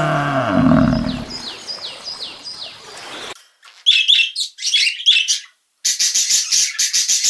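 The tail of a rooster's crow fades out in the first second or so. Then a songbird calls: a few short notes sliding downward, sharper chirps, and a fast chattering run of about eight notes a second near the end.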